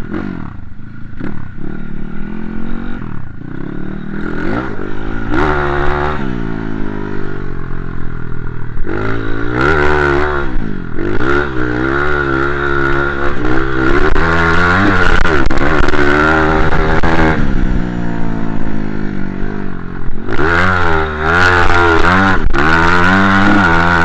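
Motocross dirt bike engine revving hard and backing off again and again as it is ridden, its pitch climbing and falling repeatedly.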